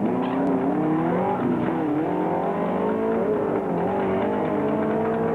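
Ford Mustang fastback's engine accelerating hard from the drag-strip start line. Its pitch climbs and drops back several times as it shifts up through the gears.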